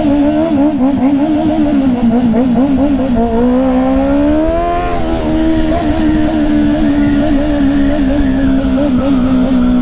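Sport motorcycle's engine running at low road speed, its pitch wavering under light throttle, then rising about three seconds in before settling into a steady note, with wind rumble on the microphone.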